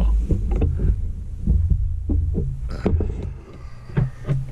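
Low rumbling thumps and scattered knocks of a handheld camera being moved and handled close to its microphone.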